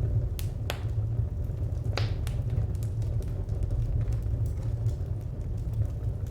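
Fire crackling: a steady low rumble with scattered sharp pops and snaps, the strongest ones in the first couple of seconds.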